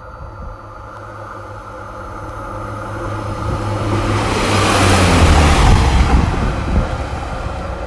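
Class 143 Pacer diesel multiple unit running through the station as empty stock. Its low diesel engine drone grows steadily louder as it approaches and is loudest about five seconds in, with a rush of wheel noise, and the pitch drops as it passes and moves away.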